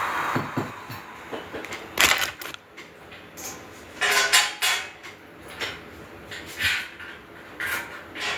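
Metal grill parts knocking and rattling as they are handled and fitted together during assembly: a series of separate clanks, the sharpest about two seconds in.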